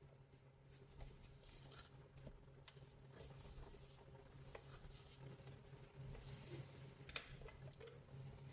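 Near silence: a steady low hum with faint, scattered clicks and light scraping.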